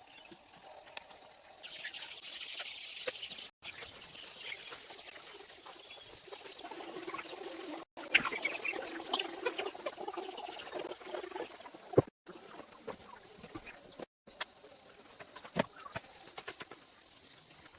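Insects, likely crickets, trilling in a steady high pitch, with scattered small knocks and clicks over it. The sound cuts out sharply several times.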